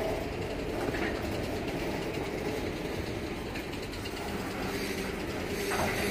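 Covered hopper cars of a freight train rolling past: a steady noise of steel wheels running on the rails.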